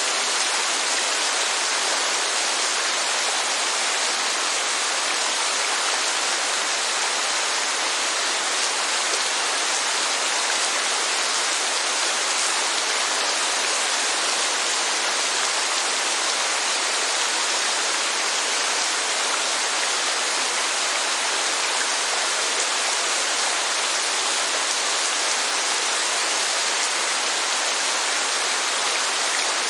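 Steady, unbroken rush of heavy rain and falling water, an even hiss with no single drops or changes standing out.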